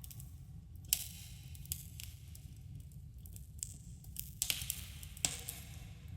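Campfire burning with a steady low rumble, broken by sharp crackles and pops: one about a second in, then a cluster of louder pops near the end.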